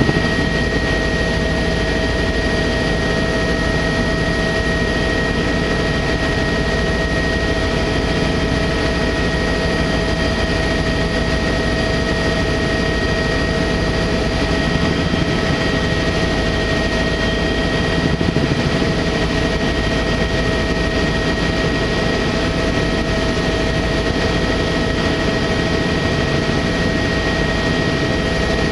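Sightseeing helicopter in steady cruise flight: an even, unbroken drone of turbine and rotor noise with a couple of steady whining tones on top.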